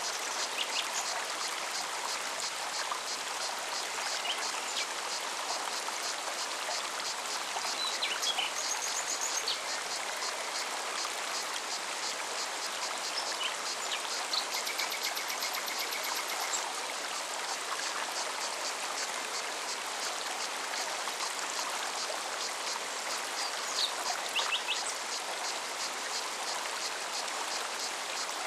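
Forest stream running steadily, with a cicada's fast pulsing buzz and a few short bird chirps and trills.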